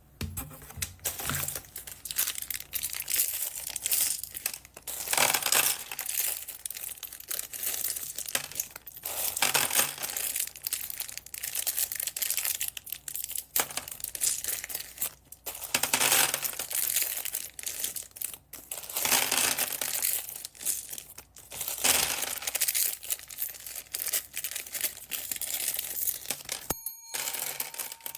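Plastic packaging bags crinkling and rustling as they are handled, in irregular waves. The sound cuts out briefly near the end, and a faint steady tone follows.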